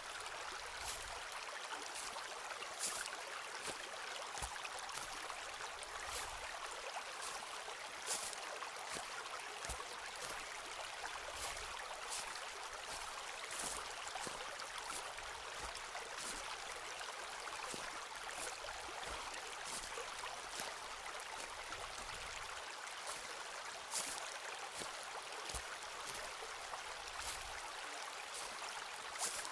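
Footsteps walking along a forest path, short sharp crunches and crackles about once a second with occasional low thuds, over a steady rushing hiss of running water.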